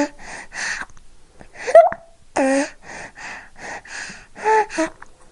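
A series of short, harsh animal calls, about two or three a second, some rising or falling sharply in pitch.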